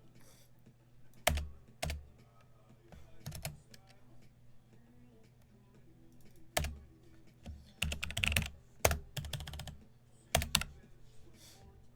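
Scattered sharp clicks and taps on a desk, irregularly spaced, with a quick run of them about eight seconds in.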